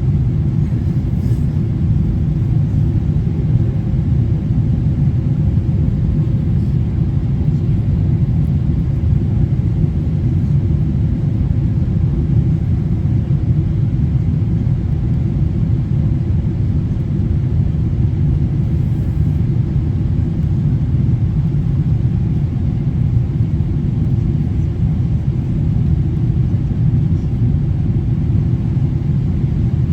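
Steady low rumble of cabin noise inside a Boeing 777-300ER airliner in flight, holding even throughout.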